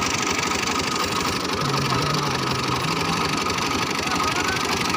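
Ghazi tractor's diesel engine running steadily, driving a tube-well (bore) pump.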